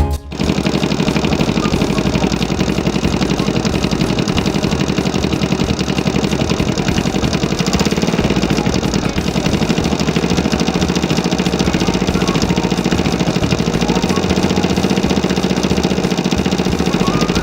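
Radio-controlled toy construction vehicle running: a steady, fast-pulsing engine-like sound that starts abruptly.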